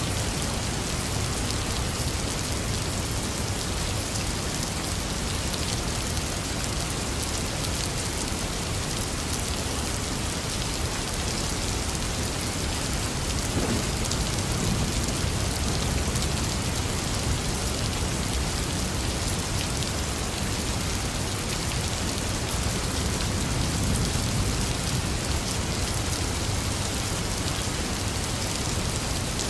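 Steady rain falling, an even hiss with no let-up. A low rumble swells slightly about halfway through and again later on.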